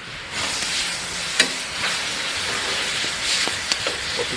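Pork gopchang hot pot sizzling and bubbling hard over a strong flame. The hiss starts about half a second in, with a few sharp clicks along the way.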